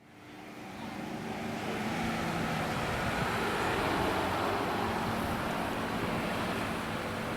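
A vehicle driving: a steady engine hum with tyre and road noise, fading in over the first second or so.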